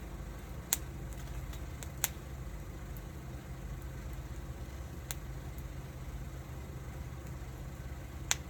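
Wood fire burning with a steady low rumble, and sharp crackling pops from the burning wood four times.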